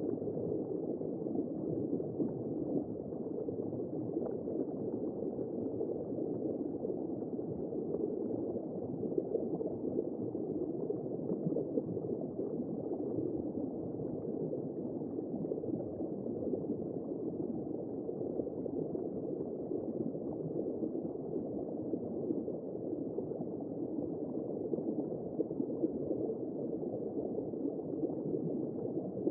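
Womb sound for lulling a newborn: a steady, low, muffled whooshing noise like blood flow heard from inside the womb.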